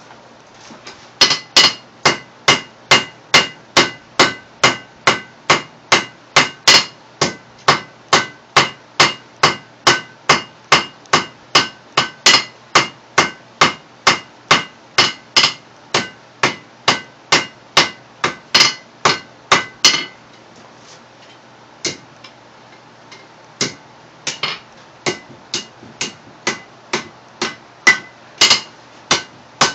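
Blacksmith's hammer striking hot steel on an anvil, forging a drive hook: a steady run of blows at about two a second, each with a bright ring. The blows pause for a few seconds about twenty seconds in, then resume less evenly.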